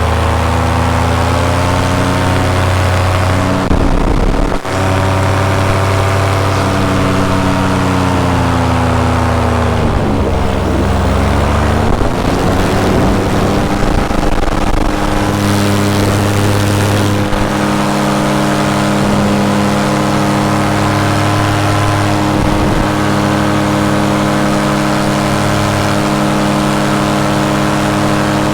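Paramotor engine and propeller running steadily in flight; the pitch sinks slowly as the throttle eases off about ten seconds in, then rises again and holds.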